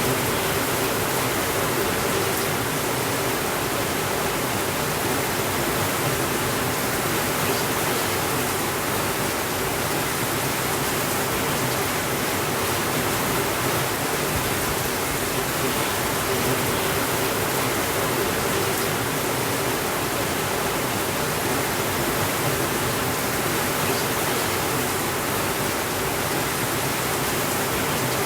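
Steady rainfall, an even hiss that holds the same level throughout, with no thunder.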